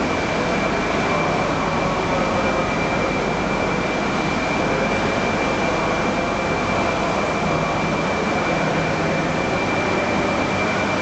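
Max Toki double-decker Shinkansen train at the station: a steady rushing drone with a constant high-pitched whine over a low rumble, holding an even level.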